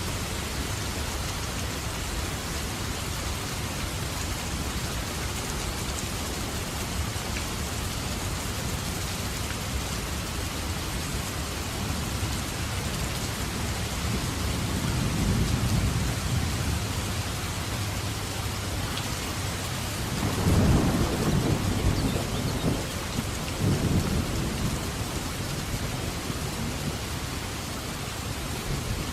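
Steady rain falling in a thunderstorm. Thunder rumbles low about halfway through, then a louder rumble starts about two-thirds of the way in and rolls on for several seconds.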